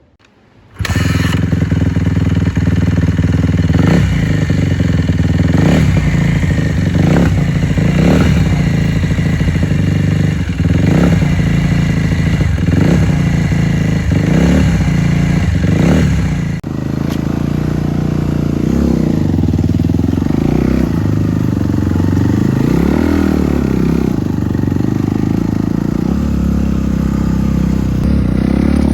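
2012 Suzuki RM-Z250 dirt bike's single-cylinder four-stroke engine running while the bike is ridden, loud and fairly steady, with the pitch dipping and rising again about two-thirds of the way through.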